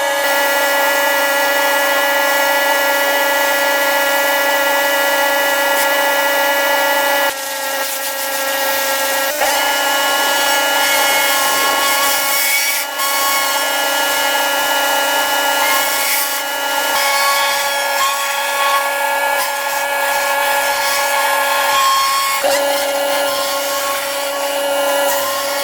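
Pressure-washing equipment running: a steady machine whine over a hiss of spray. The sound shifts abruptly in pitch and level several times.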